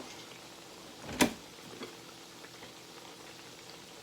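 A single sharp knock about a second in, over faint steady kitchen background noise.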